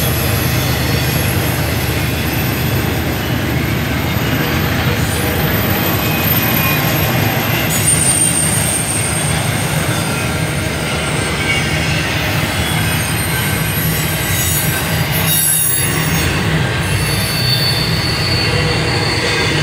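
CSX double-stack container train rolling past: a steady rumble of wheels and cars on the rails, with a thin high-pitched squeal from the wheels over it.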